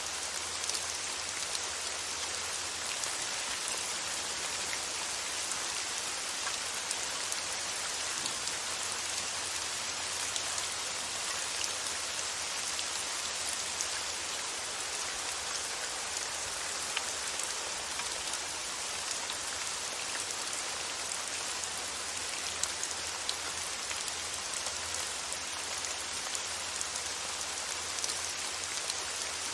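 Steady rain falling, a dense even patter of drops with a hiss, with no let-up or change.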